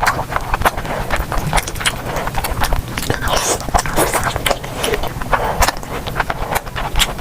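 Close-miked eating: a person biting and chewing food, with many quick, sharp, crunchy clicks throughout.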